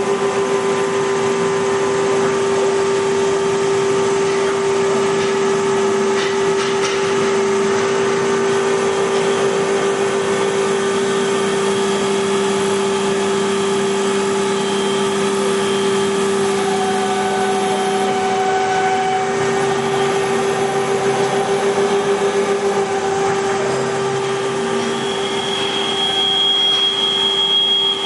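Hager HD300A-CNC computer-controlled wood lathe running and turning wood, a steady machine hum under a rough cutting noise. A higher whine joins near the end.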